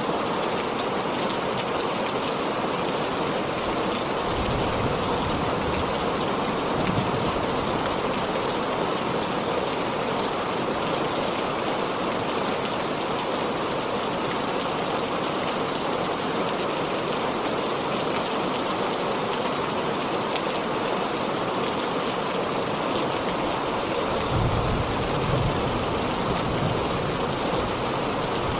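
Heavy rain falling steadily, a dense even hiss, with two brief low rumbles: one about four seconds in and another near the end.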